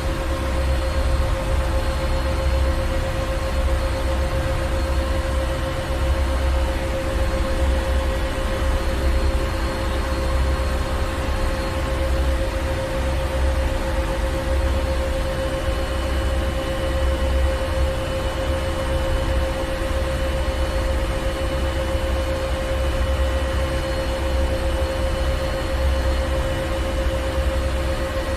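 Ship engine room machinery running steadily: a deep rumble that pulses unevenly, with a steady mid-pitched hum and a hiss over it.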